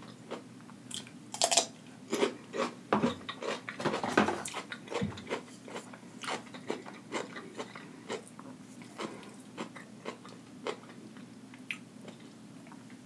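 A person crunching and chewing fresh cucumber with sauce: crisp, wet bites and chews, densest and loudest in the first five seconds, then thinning to scattered crunches.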